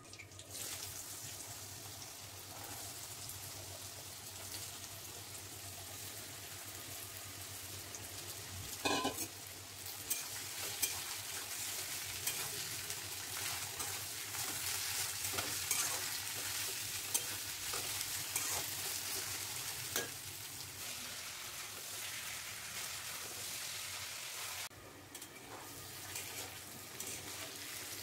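Hot mustard oil sizzling in a steel kadai as whole dry red chillies fry, then a clatter about a third of the way in and louder sizzling as cut potato sticks fry and are stirred with a spatula, with occasional clicks against the pan. The sizzle eases a few seconds before the end.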